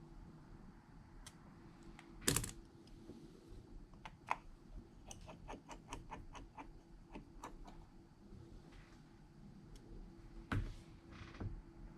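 Light clicks and taps of small repair tools against a phone's parts, with a sharper click about two seconds in and a quick run of about a dozen ticks in the middle, over a faint steady hum.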